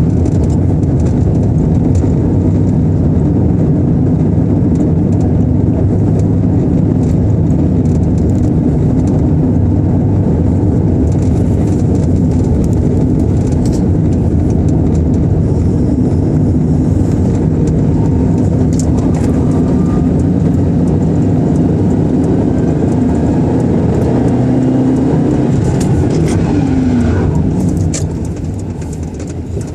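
A car driving, heard from inside the cabin: loud, steady engine and road noise with a low hum, getting quieter near the end.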